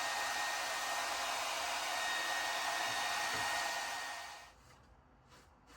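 Handheld hairdryer blowing steadily, a hiss with a faint high whine, heating old felt glue to loosen it; it switches off about four and a half seconds in, leaving faint scraping sounds.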